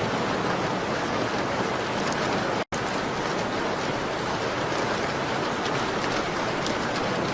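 Steady rain on a window, an even hiss with faint scattered ticks of drops. The sound cuts out completely for an instant about two and a half seconds in.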